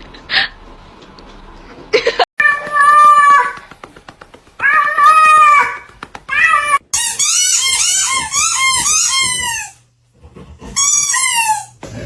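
Cats meowing: a few drawn-out meows, then a quick run of short meows, then one more meow near the end.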